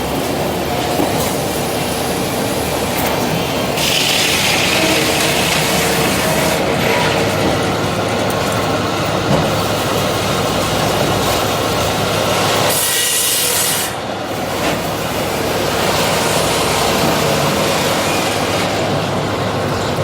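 Brewer sharp chain scragg sawmill running, with a steady mechanical clatter. A louder, brighter stretch comes about four seconds in and lasts a couple of seconds, and a shorter one comes about thirteen seconds in.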